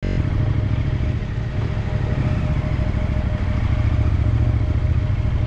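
Off-road motorcycle engine running steadily at low speed, heard from a camera mounted on the bike, with a constant low pulsing.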